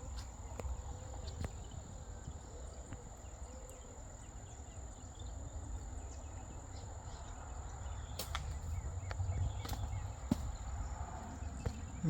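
Low rumble of wind and handling noise over a steady high-pitched whine, broken by a few sharp clicks and taps, the sharpest about eight seconds in.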